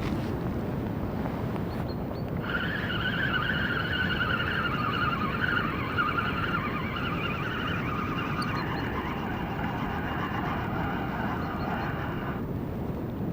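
Wind noise on the microphone, and from about two seconds in until near the end a feeder spinning reel whirring as line is wound in, its pitch dropping somewhat partway through.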